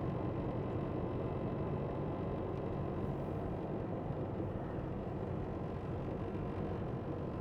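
Semi truck's diesel engine running steadily at low speed, a steady low drone with road noise, heard from inside the cab.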